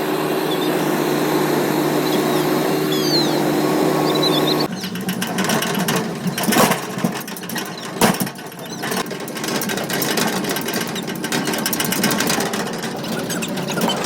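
Mahindra Arjun Novo tractor's diesel engine driving a Gahir Nippy 45 mini combine harvester: a steady running hum, then after a cut a busier clattering rattle from the working machinery with two louder knocks.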